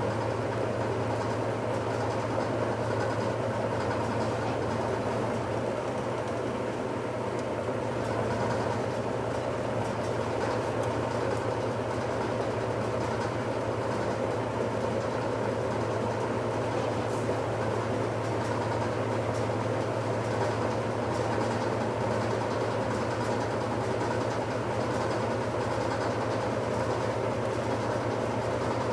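1969 Westinghouse LAJ 535A3 washing machine running through its cycle: a steady motor hum under even mechanical noise, with no change in level.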